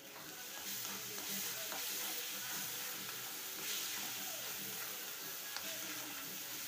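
Onion-tomato masala sizzling in hot oil in a kadai while ginger-garlic paste is stirred into it with a metal spatula, a steady frying hiss with the scrape of the spatula's strokes.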